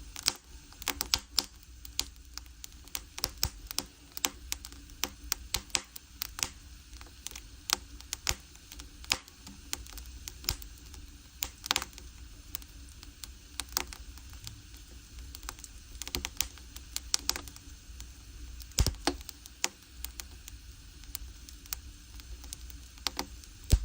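Firewood burning in a traditional Korean agungi furnace, crackling with irregular sharp pops over a low rumble of the fire; a louder pop comes a little before the end.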